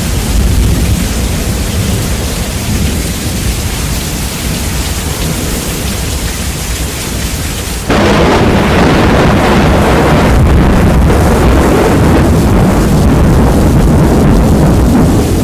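Heavy rain with rumbling thunder, heavily bass-boosted and very loud. About eight seconds in it jumps suddenly louder and denser.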